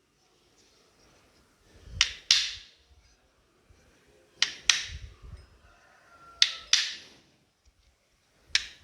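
Hand tool work on a mixer grinder's motor parts during reassembly: pairs of sharp clicks, two quick strokes each, repeating about every two seconds.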